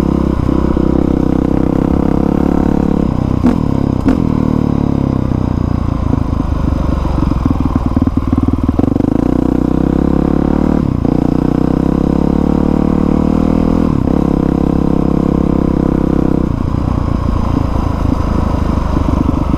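2020 Honda CRF450R's single-cylinder four-stroke engine running under way, its note stepping up and down several times as the throttle and gears change.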